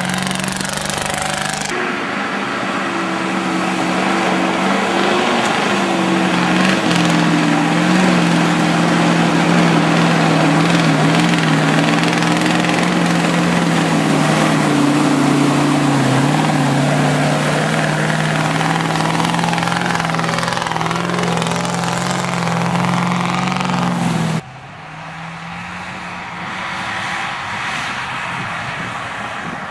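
GAZ-66 truck engine running hard under load, a steady loud drone with a held pitch and much mechanical noise. About 24 seconds in the sound drops abruptly to a quieter engine drone.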